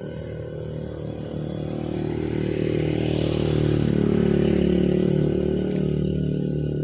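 A motorcycle engine passing by, growing louder to a peak about four seconds in, then fading.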